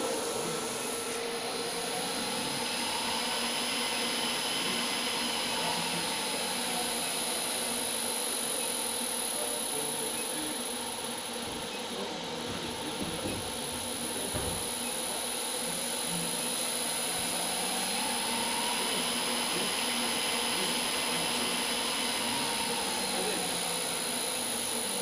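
Electric motor run by a Teco Speecon GS510 variable-frequency drive, its whine rising and falling in pitch twice as the drive ramps the speed up and back down, over steady high-pitched tones.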